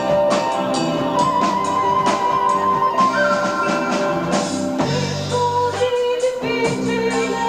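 Progressive rock band playing live, an instrumental passage with electric guitar, keyboards, bass and drums: held melody notes over a steady drum beat, on an amateur cassette recording of a concert.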